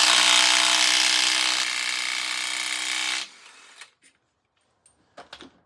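Power tool, most likely a cordless impact wrench, running on the 18 mm harmonic balancer (crankshaft pulley) bolt of a Ford 4.6 three-valve V8. It runs steadily for about three seconds, then stops and winds down.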